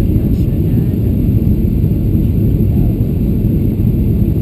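Steady low rumble inside the cabin of a Boeing 737-700 during the landing phase: engine and airflow noise from its CFM56 engines, even in level throughout.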